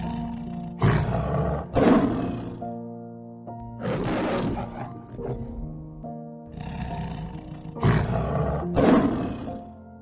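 Male lion roaring in five short, rough calls: a pair, a single one, then another pair, over background music.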